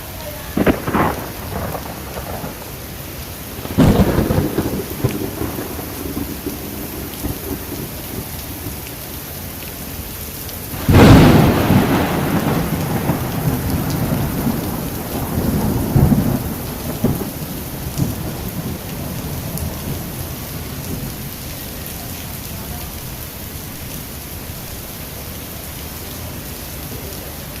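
Heavy downpour in a thunderstorm: a steady hiss of rain, broken by sudden thunder claps with low rolling rumbles about a second in, around four seconds, loudest about eleven seconds in with a long rumble, and again around sixteen seconds.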